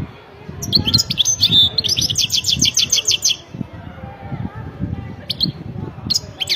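European goldfinch singing: a fast twittering run of high repeated notes lasting about three seconds, then a few short separate chirps near the end.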